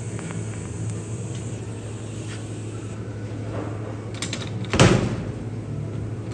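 TIG welding arc with a steady hum and a high hiss that cuts off about halfway through, as the weld stops. A few light clicks follow, then one loud knock about three-quarters of the way in.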